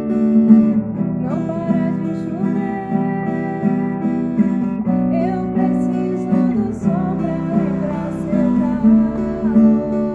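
Acoustic guitar strummed in a steady rhythm, with a bending melody line over it from about a second in until shortly before the end.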